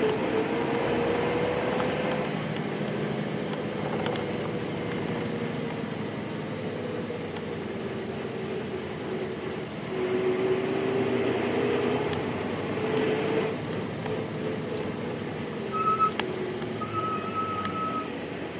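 Interior running sound of a Nissan Diesel Space Runner RM (KC-RM211) city bus, its FE6 inline-six diesel engine pulling under way, the engine note dipping and then climbing with a louder pull about ten seconds in. Near the end, two brief electronic beeps, the second about a second long.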